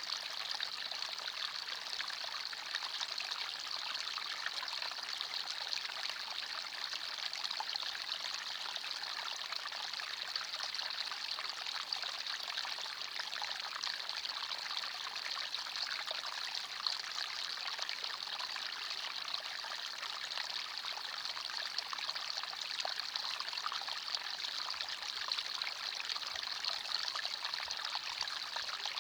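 Small forest stream trickling and babbling over stones, a steady, even water sound with a bright hiss.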